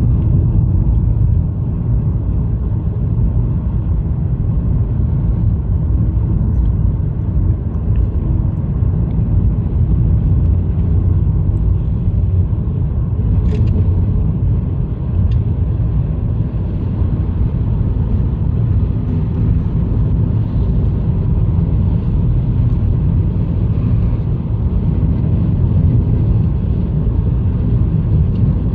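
Steady low rumble of road and tyre noise heard inside a 2020 Honda Fit's cabin while it drives on a winter road, with one faint click about halfway through.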